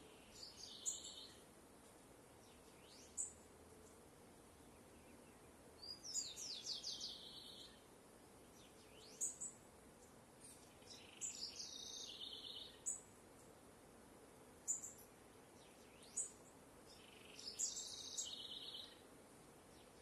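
Birds singing: a short, high, twittering phrase comes four times, about five seconds apart, with single sharp high call notes in between, over a faint steady outdoor hiss.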